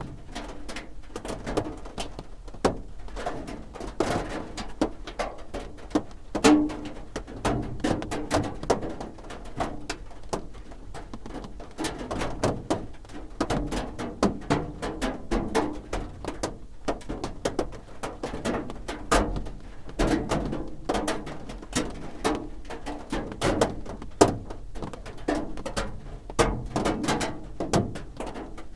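Raindrops drumming on a roof: dense, irregular ticks and knocks of individual drops over a steady, hollow patter.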